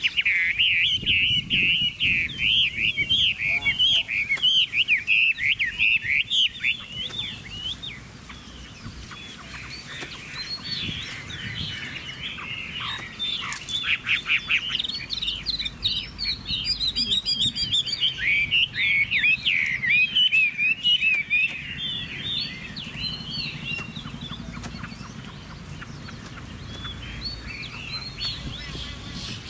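Chinese hwamei singing a rapid, varied warbling song, loud for the first several seconds and again through the middle, softer in between and toward the end.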